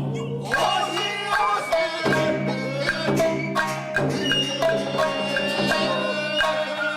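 Tokiwazu accompaniment with no chanting: shamisen playing a quick run of sharp plucked notes over sustained lower tones.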